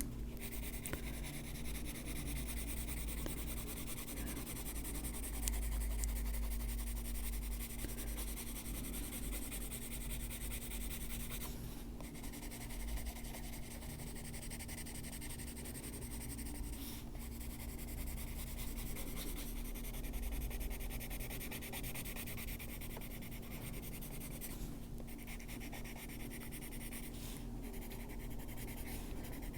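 Coloured pencil shading on paper: a Holbein pencil rubbed steadily back and forth across the page in a continuous scratchy stroking.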